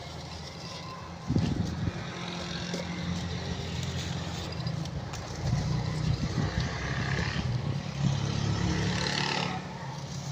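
A motor vehicle engine running close by, a steady low hum that starts suddenly about a second in, over faint crunching of soft ash blocks being crumbled.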